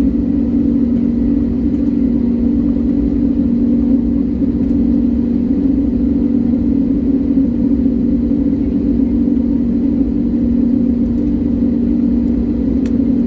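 Airliner engines droning steadily as heard inside the passenger cabin during the takeoff climb, an even low hum with no change in pitch.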